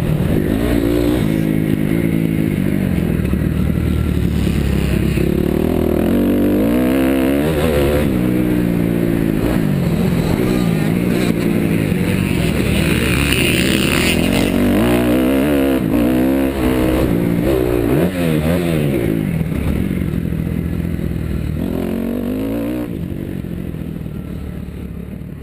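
A 2009 Honda CRF250R's single-cylinder four-stroke engine revving hard and easing off over and over, its pitch climbing and dropping as the dirt bike is ridden around a motocross track. The sound gets quieter over the last few seconds.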